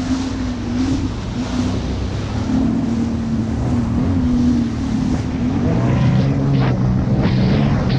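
Jet ski engine running at speed with wind rushing on the microphone. About five and a half seconds in, the engine pitch drops as the throttle comes off, and a few short slaps of water follow.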